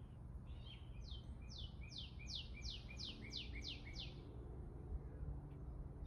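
A songbird singing a quick series of about nine down-slurred whistled notes, about three a second, over a steady low background rumble.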